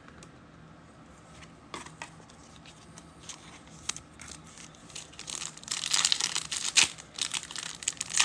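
Trading-card pack wrapper being torn open and crinkled by hand, a few faint handling clicks first, then loud, dense crinkling and ripping from about five seconds in.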